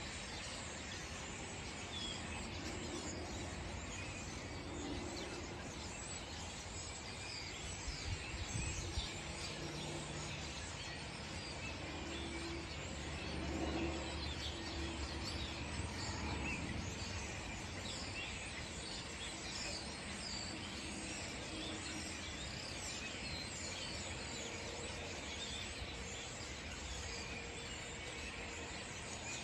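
A large flock of European starlings chattering together, a dense continuous mix of squeaks, whistles and clicks. A low rumble swells and fades around the middle.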